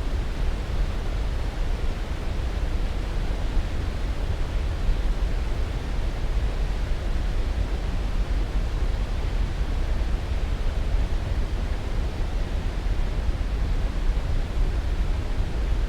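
Steady sleep-aid noise: a constant, even rushing hiss, heaviest in the low end and thinning toward the top, with no breaks or changes.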